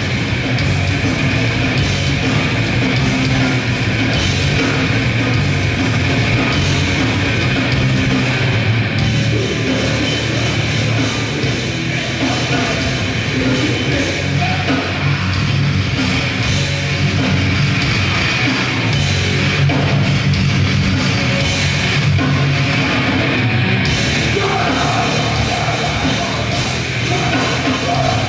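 Grindcore band playing live: distorted guitars, bass and fast drums, loud and unbroken, with shouted vocals.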